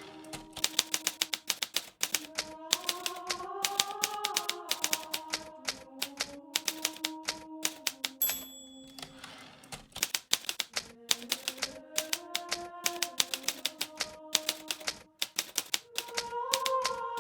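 Hermes Baby manual typewriter keys striking in quick, irregular runs, with a brief high ring about eight seconds in. Soft background music with slowly changing held notes plays underneath.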